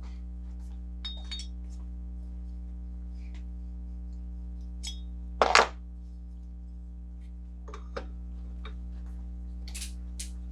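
Metal tools clinking and tapping against the water pump and each other as bushings are reamed: a few scattered clinks, the loudest pair about five and a half seconds in, over a steady low hum.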